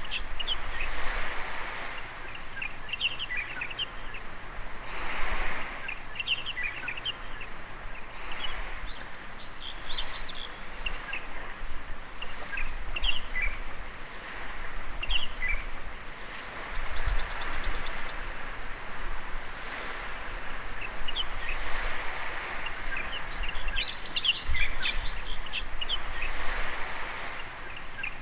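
Many small birds chirping and twittering continuously over soft surf, the wash of the waves swelling every few seconds. One bird gives a quick run of rapid repeated notes about two-thirds of the way through.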